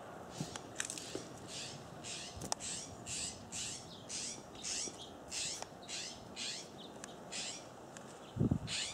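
A bird giving a steady series of harsh, scratchy calls, each sliding downward, about two a second. A low thump near the end is the loudest sound.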